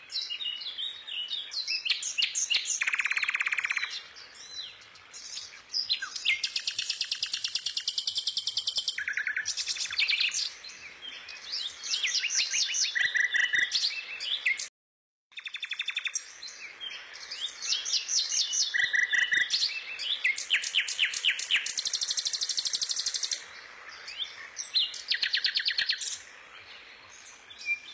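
A songbird singing: fast trills, chirps and runs of rapidly repeated high notes, continuous apart from a brief break about halfway through.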